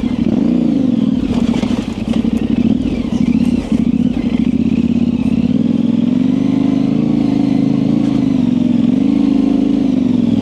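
2024 Yamaha Tenere 700's parallel-twin engine, fitted with an aftermarket high exhaust, running on and off the throttle at low to moderate revs. The pitch rises and falls, and the sound dips briefly twice in the first four seconds, with a few light knocks.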